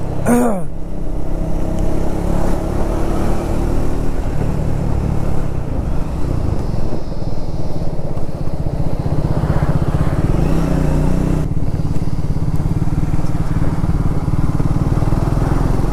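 Triumph Speed 400's single-cylinder engine running steadily as the motorcycle rides along, with wind noise over the microphone. The engine note shifts about four seconds in and again around ten seconds in.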